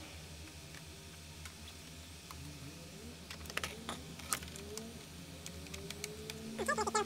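Scattered keyboard keystrokes, a few sharp clicks about three to four and a half seconds in, over a steady low hum, with a short warbling call near the end.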